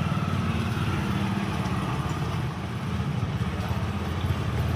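Truck engine running steadily with a low, rapidly pulsing rumble.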